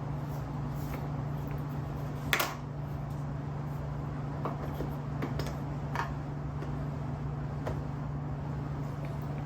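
A steady mechanical hum, like a small motor or engine running, with a sharp clack about two and a half seconds in and a few fainter clicks later.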